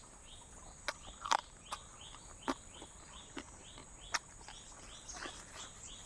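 Night insects: a steady high chirring with short chirps repeating about twice a second. Irregular sharp clicks cut in, about eight of them, the loudest just over a second in.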